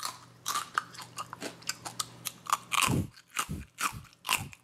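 A person biting and chewing a piece of Chinese roasted pork belly with crispy crackling skin: an irregular run of sharp crunches, the loudest in the second half. The crunching shows how crisp the skin is.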